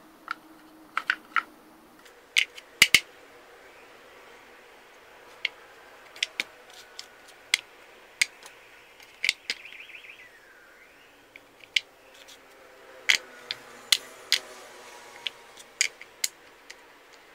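Wooden puzzle pieces clicking and knocking against each other as they are handled, in irregular sharp clicks with the loudest ones around three seconds in and again between about thirteen and sixteen seconds.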